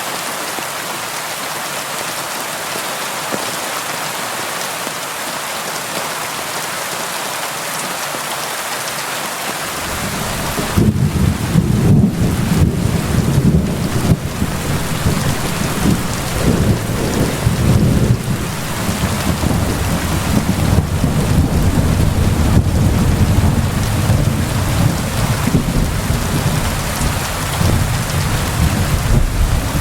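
Steady rain falling on window glass. About ten seconds in, a long low rumble of thunder rolls in, swelling and easing for most of the rest of the clip.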